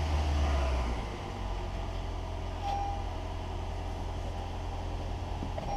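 2018 Lexus NX300h 2.5-litre four-cylinder engine running steadily, a little louder in the first second before settling, with a short high beep about three seconds in.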